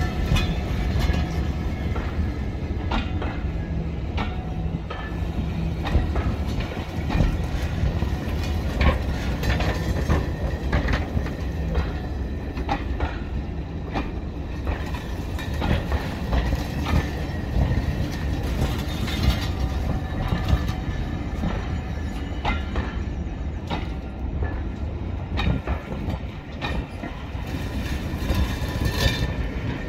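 A train running on the line, with a steady low rumble and a low engine-like note under frequent irregular clicks and knocks.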